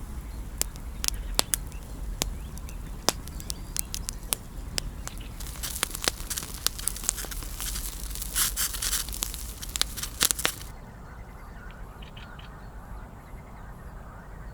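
Wood campfire crackling, with irregular sharp pops and a hissing stretch in the middle; after about ten seconds it goes quieter, with only faint crackles.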